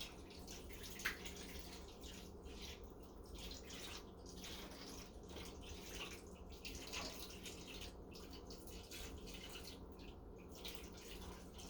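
Kitchen tap running, water splashing unevenly into ice cube trays as they are filled, with a small knock about a second in.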